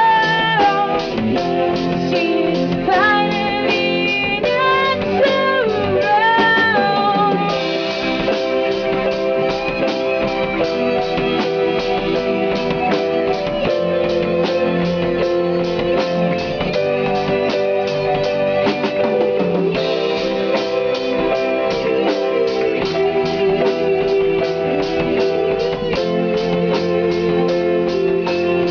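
Band music: guitars playing over a steady drum beat, with a bending melodic lead line in the first few seconds, then an instrumental passage.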